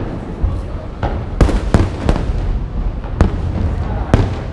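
Aerial fireworks bursting: several sharp bangs over a constant low rumble, the last one, near the end, among the loudest.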